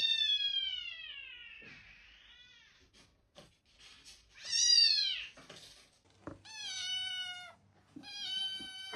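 Domestic cat meowing four times: a long, drawn-out meow that falls in pitch, a shorter one that rises and falls about halfway through, then two steadier, level meows near the end.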